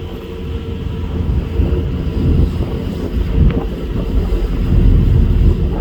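Wind buffeting the microphone over the steady drone of a ferry's engines, with water rushing past the hull.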